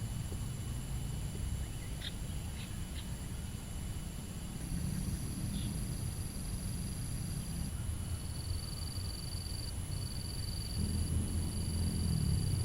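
Outdoor ambience of insects trilling steadily at a high pitch, with a few short chirps about two to three seconds in. Under it runs a low rumble that grows louder near the end.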